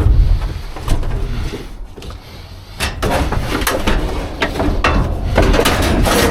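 Scrap and debris being handled in a steel dumpster: irregular clanks and knocks over a low rumble, thinning out for a moment around two seconds in, then coming thick again.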